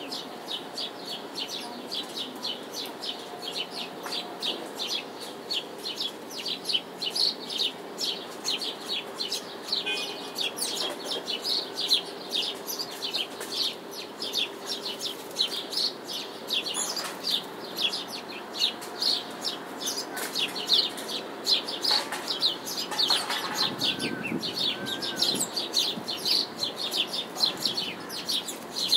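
A small bird chirping over and over, about three short high chirps a second, over a low steady distant city hum.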